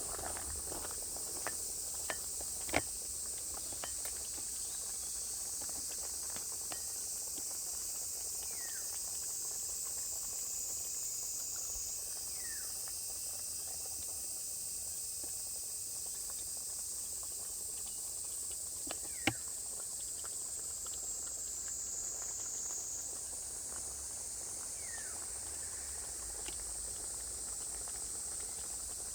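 Steady high-pitched insect chorus that shifts slightly in pitch twice, with a few faint short falling whistles and a couple of sharp clicks.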